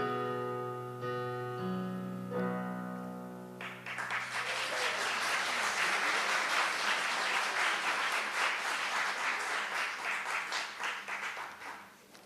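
Closing piano chords ringing out, with new chords struck about one, one and a half, and two and a half seconds in. Audience applause then breaks out about three and a half seconds in and dies away near the end.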